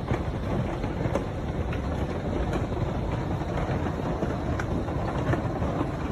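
Hail and heavy rain pelting down: a dense, steady noise with many scattered sharp clicks of hailstones striking.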